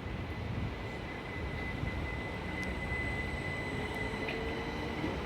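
Train at a station platform: a steady rumble with a thin high steady whine, and a faint tone slowly rising in pitch in the second half.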